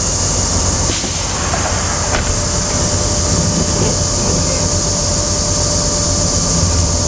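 Steady low rumble of a heavy vehicle being pulled, the old army truck rolling out under tow, with a constant hiss over it. A thin steady whine comes in about two seconds in and holds.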